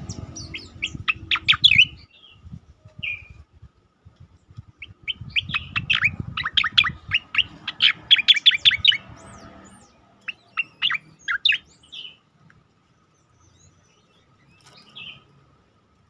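Cicakoreng (striated grassbird) singing its rapid 'tembakan' volleys: three fast bursts of sharp notes, each sweeping steeply downward. The middle burst is the longest. A single faint note comes near the end.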